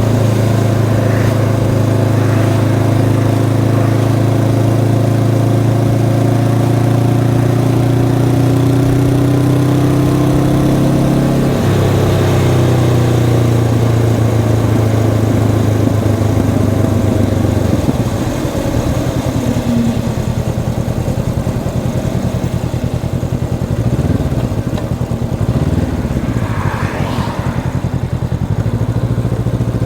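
Honda CB500X's parallel-twin engine under way with a stock exhaust. The note climbs slowly and then drops suddenly about a third of the way through, as in a gear change. From a little past the middle the engine note falls lower and rougher, as when the throttle is closed.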